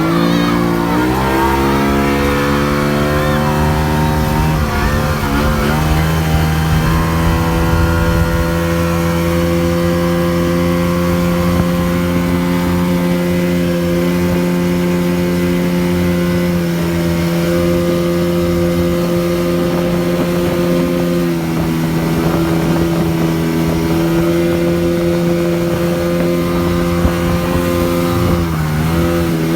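Motorboat engine towing a banana boat, revving up in the first couple of seconds and then running steadily at speed, with two brief dips in pitch later on.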